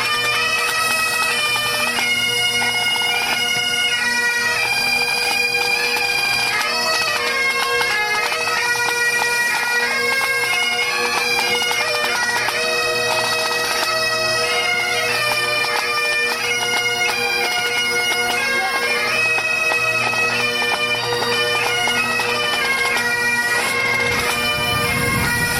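Pipe band's Great Highland bagpipes playing a tune: a melody of shifting notes over steady, unbroken drones.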